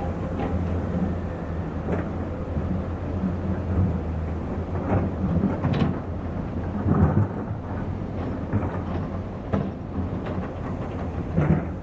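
Heavy diesel machinery running with a steady low engine rumble, broken by irregular metallic clanks and knocks from the working equipment, the loudest about seven seconds in and near the end.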